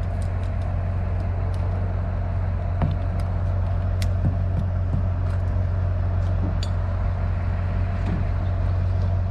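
An engine running steadily at idle, a constant low drone, with a scattering of faint small clicks over it.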